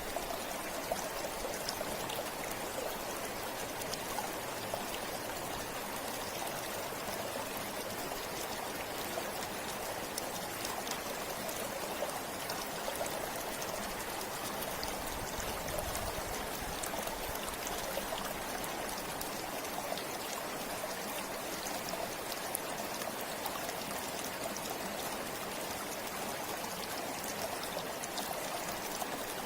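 A river flowing steadily over rocks: a continuous rush of water with small splashes and trickles through it.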